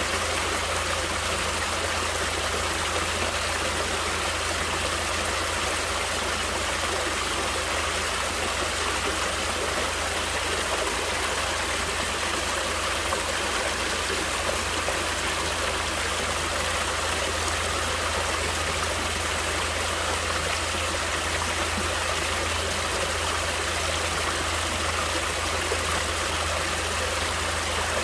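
Flowing stream water rushing steadily and unbroken, with a low rumble underneath.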